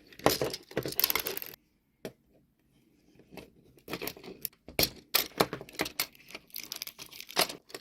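Small clicks, scrapes and rattles of a plastic toy train being taken apart by hand. A busy run of handling noise comes first, then near quiet for a couple of seconds, then scattered clicks.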